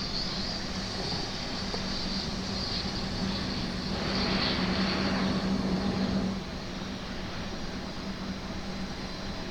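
Jet airliner engines running, a United 777-200ER's GE90 turbofans: a steady hum with a high whine over a broad rush of noise, swelling louder for about two seconds midway and then dropping back.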